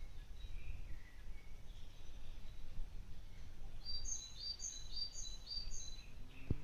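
Birds calling over a steady low background rumble: a few faint chirps, then about four seconds in a small bird repeats a short high call four times in quick succession.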